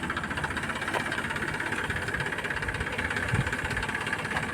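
Tractor engine running steadily with an even, rapid pulsing.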